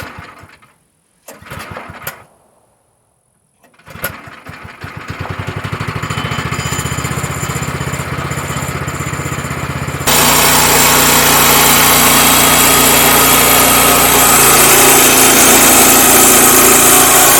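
A few knocks, then the small gasoline engine of a bandsaw mill starts about four seconds in and runs. About ten seconds in it jumps to full throttle and runs fast and steady, its throttle screw just readjusted so it reaches full speed.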